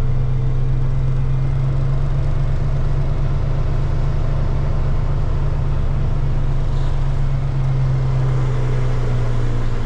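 Semi truck's diesel engine running steadily, a low even drone with no change in pitch.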